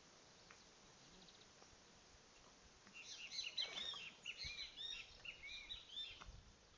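A bird singing a fast run of short, arched chirping notes for about three seconds, starting about three seconds in.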